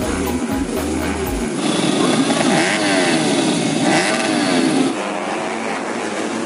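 Several motocross bikes racing, their engines revving up and down with pitches rising, falling and crossing each other. The engines are loudest in the middle, as the bikes pass close, and fall away slightly near the end.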